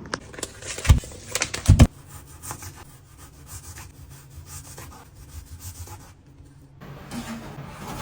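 Rubbing and scraping sounds with two sharp knocks, about a second in and just before two seconds in, followed by light scattered clicks.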